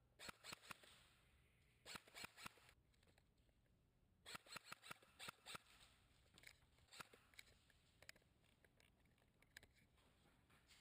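Faint sharp clicks in quick runs: about four near the start, four more around two seconds in, and six or seven around five seconds in, with scattered single clicks after.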